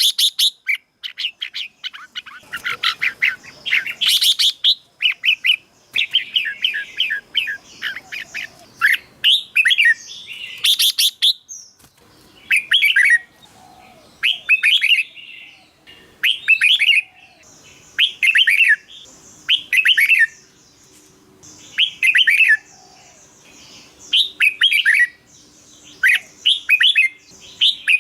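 Red-whiskered bulbul singing: short, quick warbled phrases repeated every second or two.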